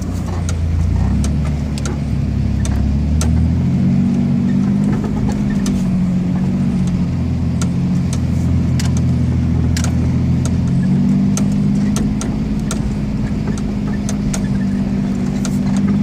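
Chevy S10 ZR2 pickup's engine running under way at low speed in four-wheel-drive low, its note shifting pitch a few times as the revs change. Scattered light clicks and knocks are heard over it.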